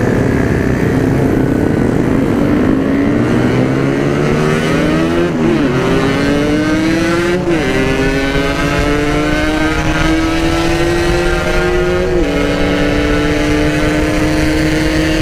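Yamaha RX-King two-stroke single-cylinder engine pulling through the gears under hard throttle. Its pitch climbs steadily, then drops sharply at upshifts about five and a half, seven and a half and twelve seconds in, with wind rushing on the microphone. The rider feels the engine is down on power.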